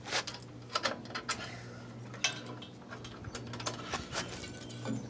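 Irregular small clicks and clinks of a carburetor float bowl and its metal fastener being handled and fitted by hand onto a small-engine carburetor.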